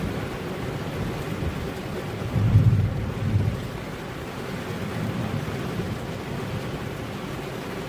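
Steady rain falling, with a low rumble of thunder that swells about two and a half seconds in and dies away about a second later.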